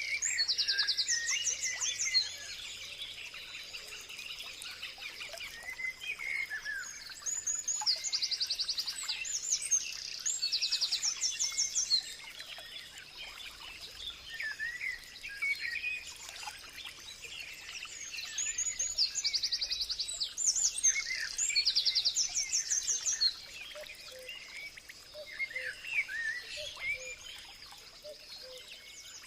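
Birds singing and calling: bouts of rapid, high trills recurring every few seconds, mixed with shorter chirps, over a faint steady high-pitched tone.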